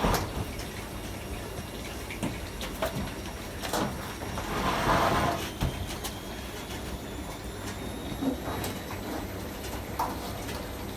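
AEG Öko-Lavamat 73749 washing machine mid-cycle: water swishing in the turning drum, swelling once about four seconds in, with a few light clicks.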